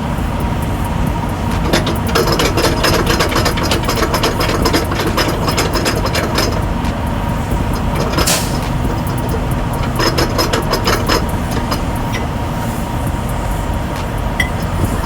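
Tractor-trailer's diesel engine running with a steady low rumble, with bursts of rapid clicking and rattling about two seconds in and again near ten seconds.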